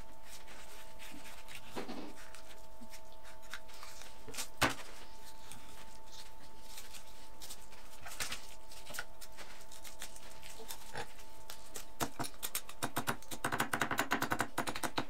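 Kitchen knife cutting through a large fish on a wooden cutting board. There are a few soft knocks early on, then a quick run of crackling cuts and scrapes near the end as the blade works along the ribs.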